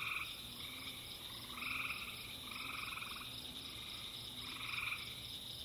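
Frogs calling in short repeated croaks, each about half a second long and a second or two apart, over a steady high-pitched insect trill.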